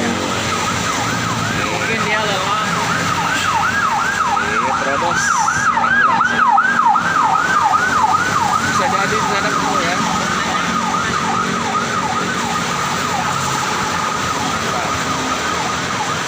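An emergency vehicle's siren in rapid yelp mode, its pitch sweeping up and down about two to three times a second, growing louder toward the middle and then fading as it passes by, over steady street traffic noise.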